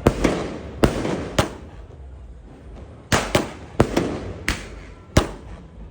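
Fireworks going off: about nine sharp bangs in quick irregular succession, a cluster in the first second and a half, a pause, then another cluster, each with a short echoing tail.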